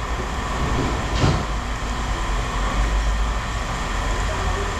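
Steady low engine rumble of heavy machinery running, with a single metallic clank about a second in.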